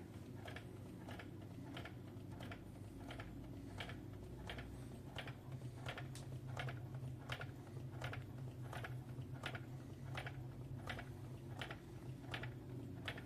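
Old Stirling engine running, its mechanism giving a light tick about two to three times a second over a steady low hum.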